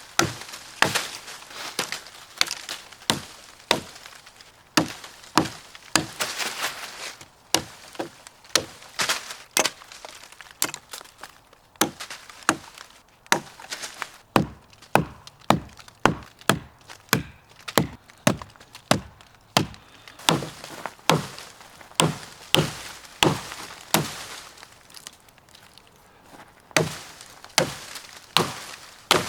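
Gränsfors axe chopping wood: sharp blows about one a second, quicker for a stretch in the middle, with a few short pauses.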